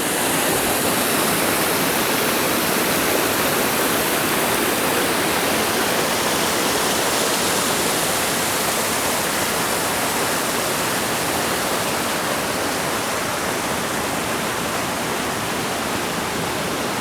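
Steady, even rush of water from a small river's waterfall.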